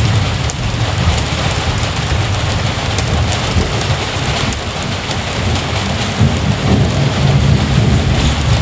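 Heavy rain pouring steadily, with a deep rolling rumble of thunder underneath that swells near the end.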